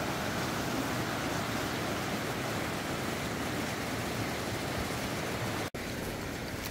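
Steady rush of falling and running water from a creek below a waterfall, an even hiss with no rhythm; it drops out for a split second near the end.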